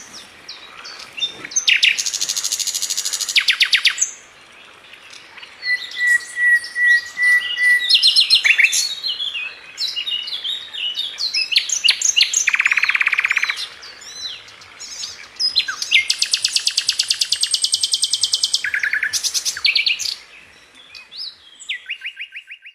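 A Sikatan London flycatcher singing a varied song: long, fast trills of rapidly repeated notes, a steady whistled note held for about two seconds, and runs of quick, jumbled chirps.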